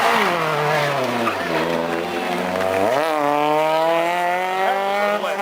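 Classic rally car's engine: the revs drop as the car slows over the first second and a half, then climb sharply about three seconds in and hold high as it accelerates away.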